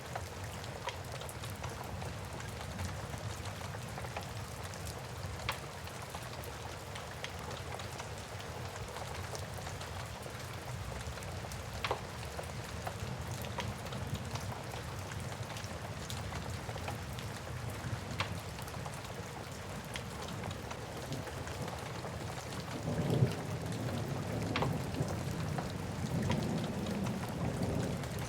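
Steady rain with the scattered pops and crackles of a wood fire. A low rumble of thunder rolls in about four-fifths of the way through.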